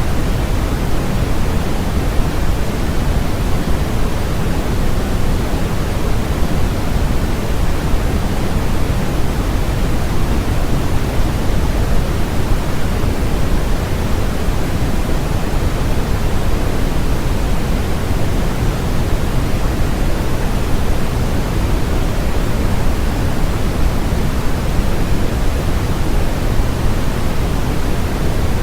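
Steady, electronically generated noise, sold as white noise: an unchanging rushing hiss, deeper and fuller than a bright hiss, close to pink noise.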